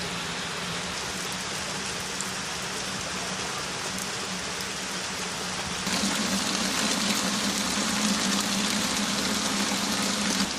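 Steady rain falling, a constant hiss that grows louder about six seconds in as the rain comes down harder.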